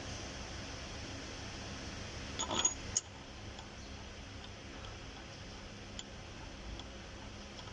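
A quick cluster of light metal clinks from hand tools and metal parts being handled, about two and a half seconds in, then a couple of faint ticks, over a steady low hum.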